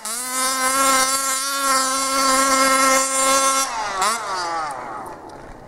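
RC car's 26cc Zenoah two-stroke engine with a DDM Dominator expansion pipe, held at high revs with a steady buzzing note for over three seconds. It then comes off the throttle: the pitch drops sharply, blips up once, and falls away quieter near the end.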